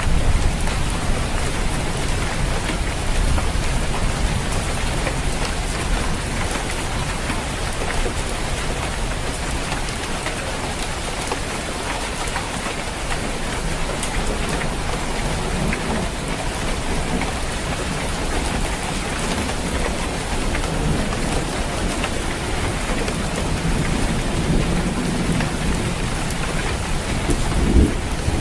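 Steady heavy rain falling on a roof, a dense even patter, with a low rumble underneath that swells near the end.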